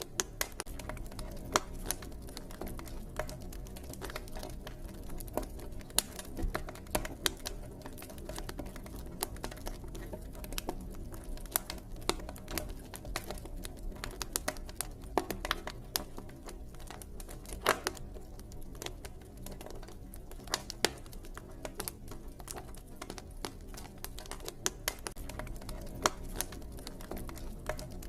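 Campfire crackling: a steady stream of irregular snaps and pops from burning wood, now and then a louder crack, over a low steady rumble.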